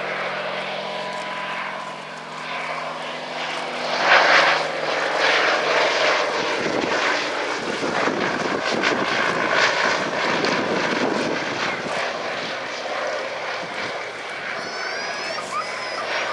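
Fairey Swordfish biplane's Bristol Pegasus radial piston engine and propeller droning as it flies past. The sound swells sharply about four seconds in as the aircraft passes close, then stays loud.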